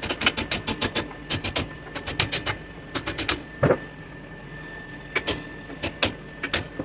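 Forging hammer striking a hot mild-steel axe head on an anvil, in quick runs of several blows a second with short pauses between runs. A steady thin high tone runs underneath.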